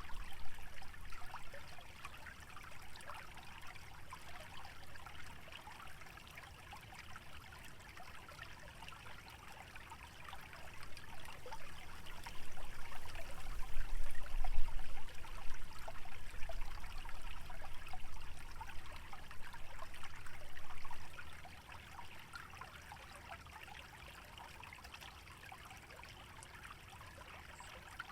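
Small stream trickling and bubbling steadily through a wetland. A low rumble swells up about a third of the way in and drops away suddenly about three-quarters through.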